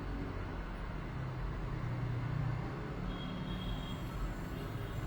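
Steady low hum with an airy hiss from a small electric blower running at the repair bench, slightly louder about two seconds in.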